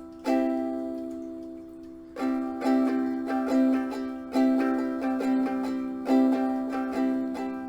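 Slide ukulele in open C tuning (GCEG) playing an intro. One chord rings out and fades for about two seconds, then a steady rhythm of repeated chords begins.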